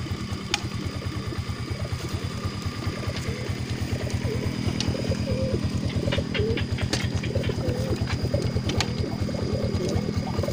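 Caged racing pigeons cooing over the steady low throb of an idling engine, with a few sharp clicks in the second half.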